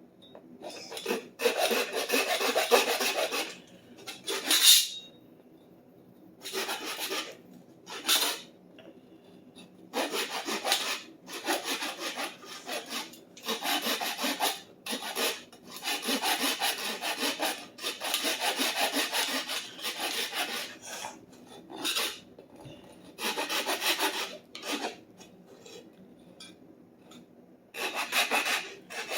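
Hand-rubbing strokes on the hammerhead to scrub off marker, in bursts of one to three seconds with short pauses between, a rough rasping scrape.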